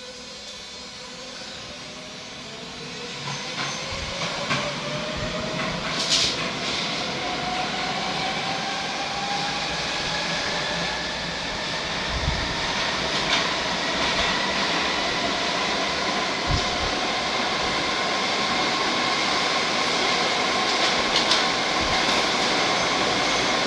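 Madrid Metro Serie 5000 train pulling away and gathering speed, its motor whine rising in pitch over the first ten seconds or so and then holding steady as the running noise grows louder. Occasional knocks come from the wheels and track.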